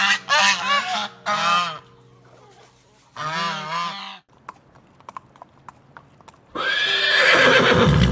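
A run of quick honking calls from waterfowl, then a single shorter call, then near the end a horse whinnying loudly for about a second and a half.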